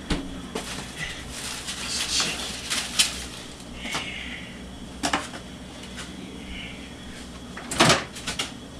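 Dishes and kitchen things being handled: scattered knocks and light clatter, the loudest knock near the end.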